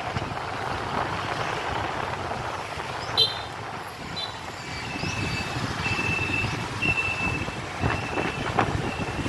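Motorbike and street traffic noise heard from a moving motorbike, with wind on the microphone. A short, sharp horn beep comes about three seconds in. Through the second half a thin, high steady beep repeats about once a second.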